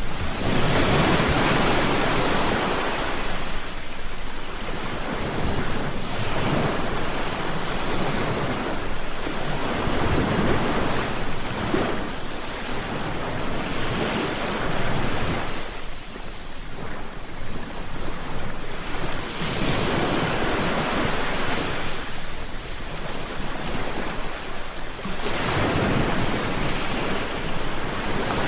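Ocean waves breaking on a shore: a rushing surf that swells and ebbs every few seconds.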